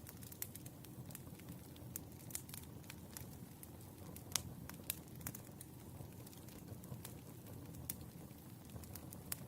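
Wood fire crackling: irregular sharp pops and snaps over a low steady rumble, with the loudest pop a little past the middle.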